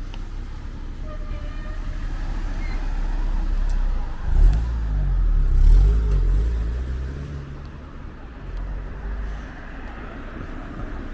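A motor vehicle drives past on the street: its engine rumble builds, peaks about halfway through with the engine note wavering, then fades away.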